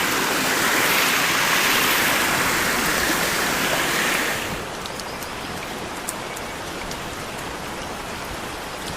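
Steady rush of a waterfall and stream. The noise is louder and brighter at first, then drops to a softer, duller rush about halfway through.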